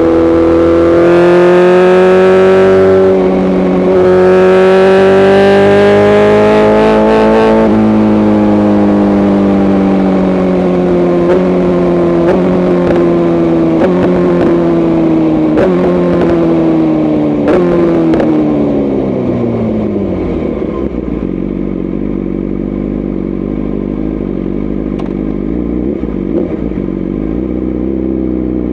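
BMW S1000RR inline-four sport bike engine with an aftermarket tune, revving up hard through two gear changes. It then slows with a series of short downshift blips and sharp exhaust cracks, and drops to a low, steady idle about twenty seconds in.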